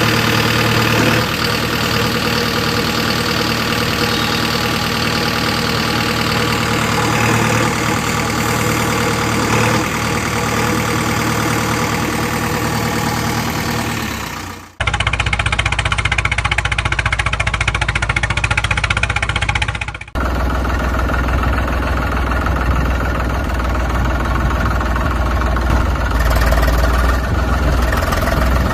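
Tractor engine running steadily. The sound cuts abruptly about 15 s in and again about 20 s in, each time to a different engine sound.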